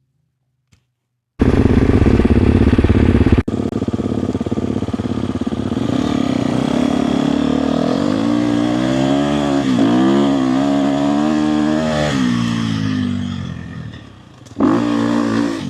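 Dirt bike engine running as the bike is ridden, its revs repeatedly rising and falling, then dying away near the end. It is preceded by a loud rush of noise that cuts off suddenly a few seconds in.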